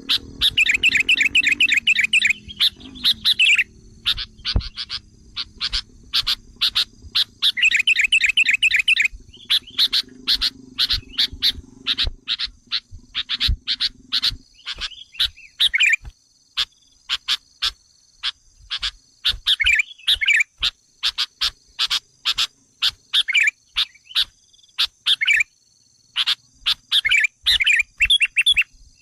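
Sooty-headed bulbul (kutilang) lure calls: agitated chattering made of fast runs of sharp short notes broken by bursts of rapid trilled chirps.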